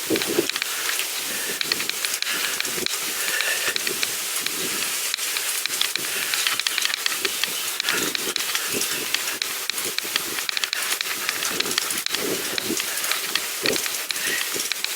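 Bicycle tyres rolling over a rough path: a steady crackling hiss with many small ticks and rattles.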